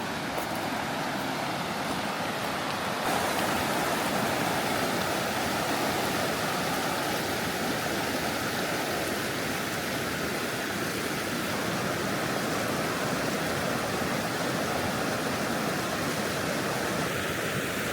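Steady rushing water, a little louder and brighter from about three seconds in.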